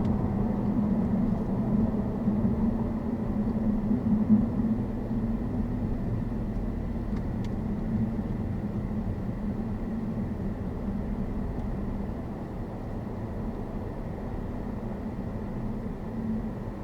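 Car driving at road speed: a steady low engine drone over tyre and road noise, easing slightly in the second half.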